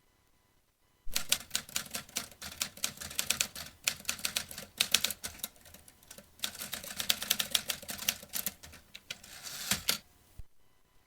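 Vintage manual typewriter being typed on: a fast run of key strikes starting about a second in, with a short lull around the middle. It ends near the end with a brief rasping sweep and a single knock.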